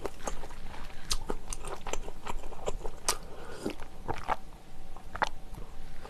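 Close-miked mouth sounds of someone eating chewy glass noodles: chewing with a string of sharp wet clicks and smacks, about one or two a second.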